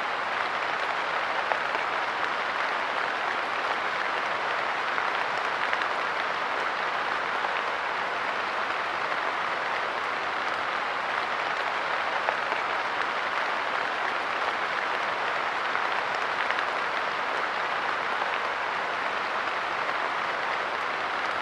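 Light rain falling steadily on a park bench: a dense, even hiss of drops, with a few slightly louder single drop hits standing out here and there.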